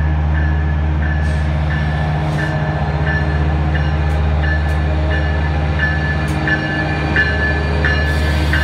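Diesel passenger locomotive drawing into a station, its engine running with a steady low rumble. A bell rings over it about twice a second, with a few brief sharp clicks.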